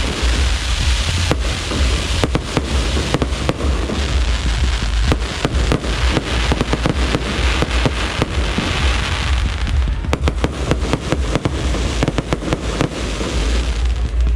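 Aerial fireworks display: a dense, continuous barrage of bangs and crackles, many per second, over a deep rumble.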